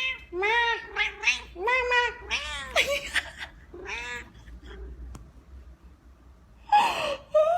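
Domestic cat meowing repeatedly in a quick series of short, rising-and-falling meows, followed near the end by a louder, rougher yowl.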